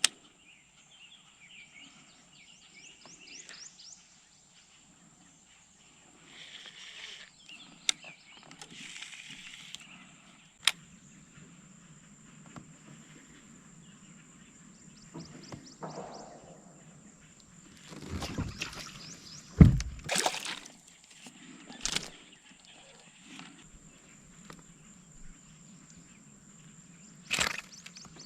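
Scattered knocks and clicks of fishing gear being handled in a kayak, over a faint outdoor background. The loudest is a deep thump against the hull about two-thirds of the way through, among a few closely spaced knocks.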